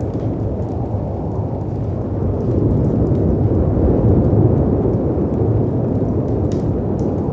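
Layered storm ambience: a deep, steady rumble of wind and sea waves crashing on rocks, swelling about midway, with faint crackles and pops of a fireplace on top.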